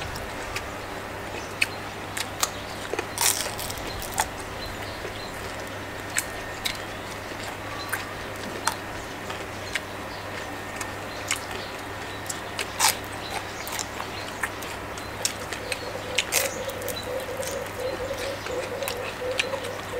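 Close-up eating sounds: crispy fried salmon being bitten and chewed, with scattered sharp crunches and smacks at irregular moments over a steady low hum.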